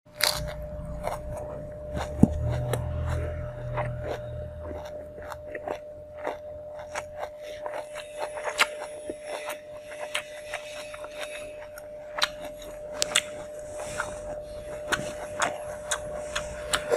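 Close-miked chewing and eating: many short crunches and wet mouth clicks as a mouthful of lettuce-wrapped food is eaten, with a faint steady tone underneath.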